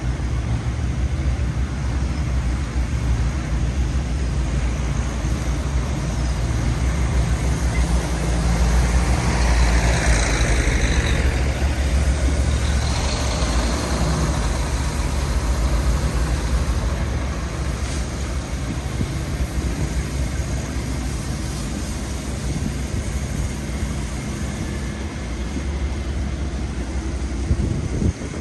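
City street traffic in a snowstorm, with wind buffeting the microphone as a steady low rumble; a vehicle passes, growing louder about nine seconds in and fading by about fifteen seconds.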